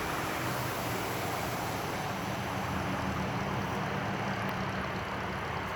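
A vehicle on the move: a steady low engine hum under even road and wind noise.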